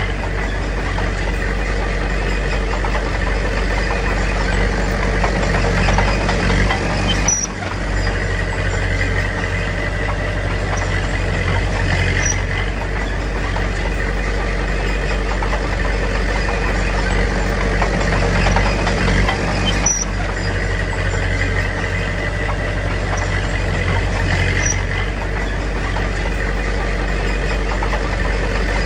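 Heavy diesel earthmoving machinery running steadily, a loud, even engine drone with a brief dip about seven seconds in.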